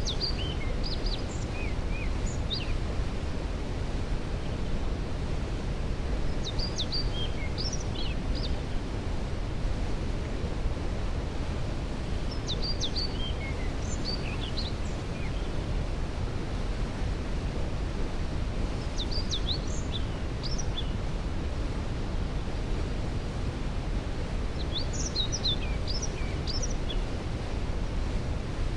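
Steady rush of a waterfall, heaviest in the low range, with a songbird repeating a short phrase of quick high notes about every six seconds, five times over.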